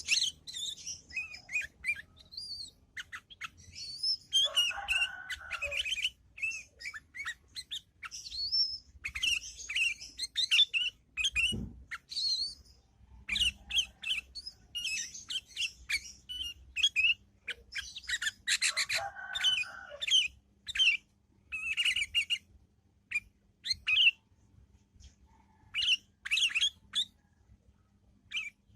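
Sooty-headed bulbul (kutilang) chattering: quick runs of short, high chirps and squeaky notes in its rapid 'ngriwik' twittering song, with a few harsher, lower phrases mixed in.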